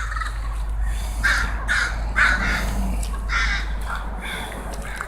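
Birds calling over and over in short calls, often in pairs, growing fainter toward the end, over a steady low background hum.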